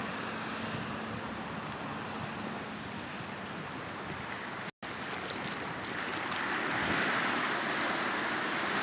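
Floodwater rushing steadily, with a brief break just under five seconds in, and growing louder from about six seconds in.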